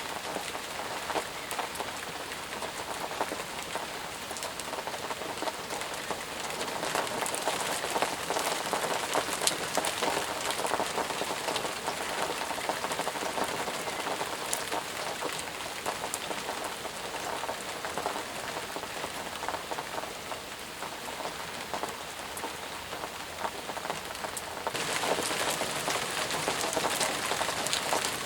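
Steady rain falling, an even hiss with many distinct drop ticks. About twenty-five seconds in it turns abruptly hissier and a little louder.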